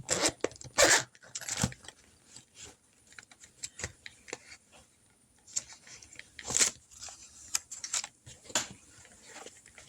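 Irregular rustling and clicking of paper cash being handled while change is gathered, with a few louder handling noises about a second in, a second and a half in, and six and a half seconds in.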